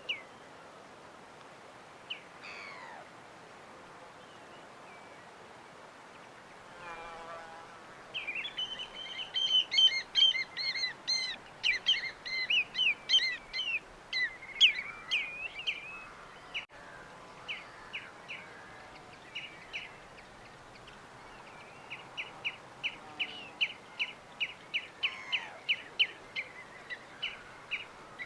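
Small birds singing over a faint steady hiss: a fast, jumbled twittering song in the middle, then a run of short repeated chirps at about two a second near the end.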